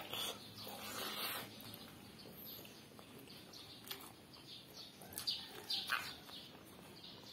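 Mouth sounds of someone eating: chewing with scattered wet smacks and clicks, a few sharper ones a little past the middle.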